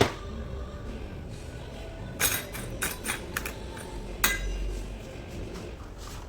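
Metal clinks and knocks of tools and gearbox parts being handled during a manual transmission overhaul: a sharp knock at the start, a run of clinks a couple of seconds in, and one more a little after.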